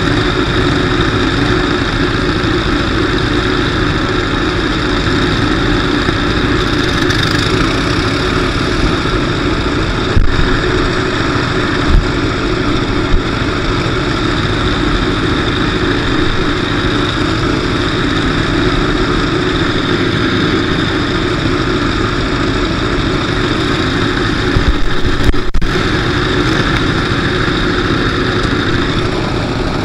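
Demolition derby car's engine running steadily, heard from inside the car, with a few brief loud bangs about ten to thirteen seconds in and again around twenty-five seconds in.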